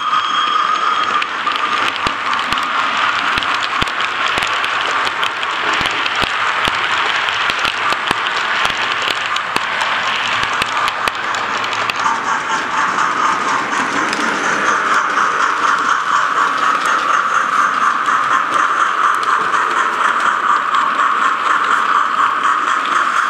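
Model steam locomotive running on track, its Hornby HM7000 sound decoder playing LNER A1/A3 steam sounds through the loco's speaker, with a steady hiss and scattered sharp clicks.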